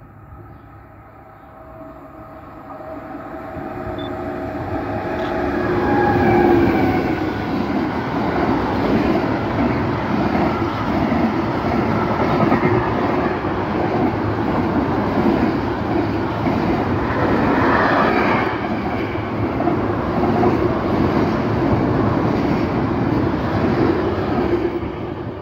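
BB 27000-series electric locomotive hauling a freight train past at speed. A steady whine grows louder as it approaches and passes about six seconds in, then the long string of container flats and tank wagons rolls by on the rails with an even rumble and clatter, fading just before the end.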